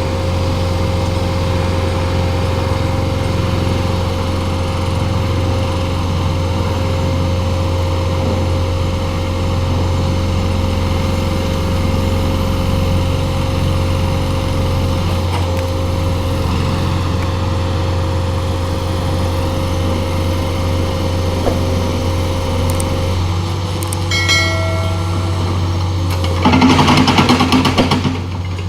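Heavy diesel engine running steadily at a constant pitch. About 24 seconds in, a brief horn note sounds. Near the end, a loud noisy burst lasts about a second and a half.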